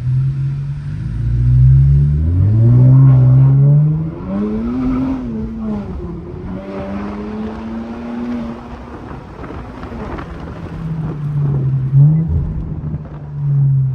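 Infiniti Q50's turbocharged engine through a muffler-deleted exhaust, accelerating hard: the exhaust note climbs in pitch for about four seconds, drops back, holds for a couple of seconds and then eases off. There is a short rev near the end.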